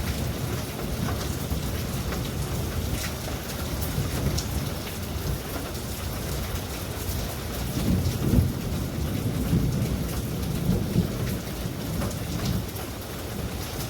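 Steady heavy rain falling with scattered sharp drop ticks, under a low rolling rumble of thunder that swells about eight seconds in and fades over the next few seconds.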